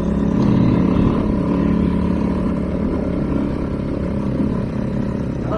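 Motorcycle engine running steadily while riding, under a low rumble of wind and road noise.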